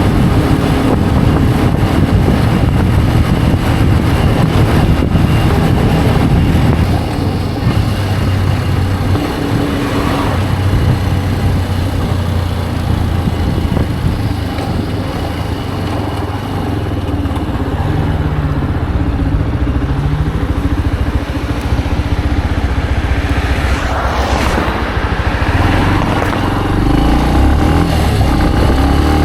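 Benelli BN125 motorcycle's single-cylinder 125 cc engine running on the move, its note shifting with the throttle. It eases off around the middle and picks up again near the end.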